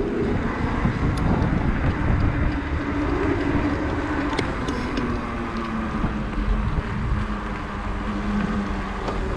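Riding an electric fat-tire bike on wet pavement: wind buffeting the microphone, over the hiss of the wide tyres rolling on the wet road and a steady low hum.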